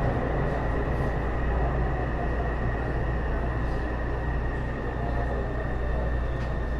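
Taipei Metro Series C301 car, refitted with Bombardier IGBT-VVVF traction, running as heard from inside the car: a steady rumble of wheels on rail with a steady high tone over it.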